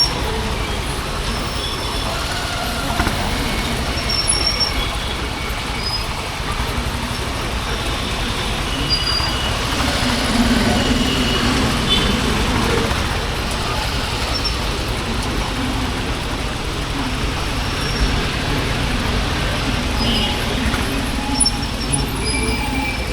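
Honda H'Ness CB350's single-cylinder engine running steadily under way, heard with wind rushing over a helmet chin-mounted camera and road traffic around it.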